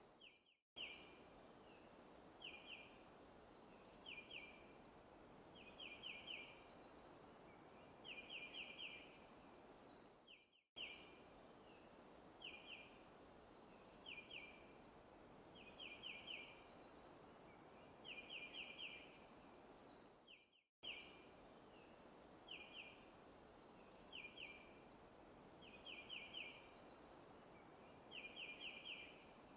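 Faint forest ambience: a bird calling in short groups of rapid high chirps, one to four at a time, every second or two, over a steady soft hiss. The recording loops about every ten seconds, each loop broken by a brief dropout.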